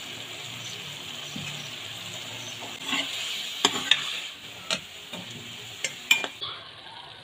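Diced chicken and green peas sizzling in a metal pot, with a steady hiss. From about three seconds in, a metal ladle stirs them and clinks and knocks against the pot several times.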